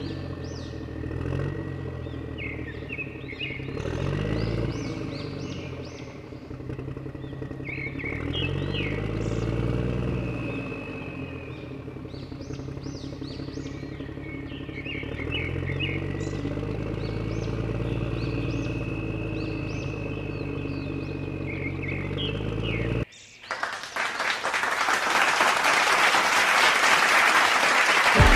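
A heavy engine revving up and down in slow waves, with birds chirping above it. About 23 seconds in it cuts off abruptly to a loud, steady hiss.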